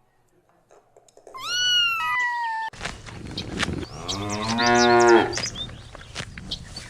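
A cat meows twice in quick succession, then a farm animal gives one long, low call, with high chirps in the background.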